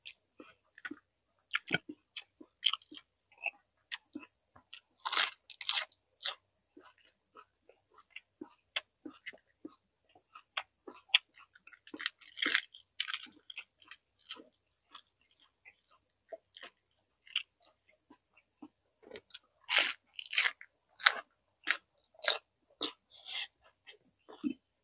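Close-miked mouth sounds of a person biting into and chewing roasted vegetables: crisp crunches and small clicks, with louder bursts of crunching about five, twelve and twenty seconds in.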